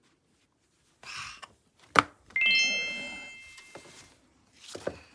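A chime: a sharp click, then several bell-like notes sounding in quick rising succession and ringing out together, fading over about a second and a half.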